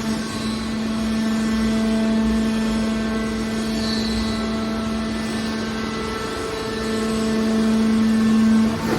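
Hydraulic metal baler's power unit running with a steady hum, swelling louder for a couple of seconds near the end.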